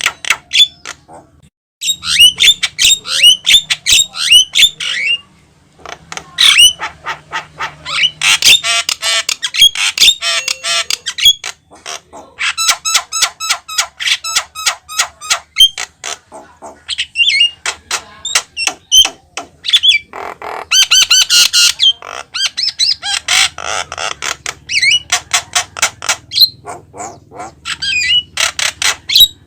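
Javan myna (jalak kebo) calling loudly in long bursts of fast harsh chattering and squawks mixed with whistled notes, broken by short pauses.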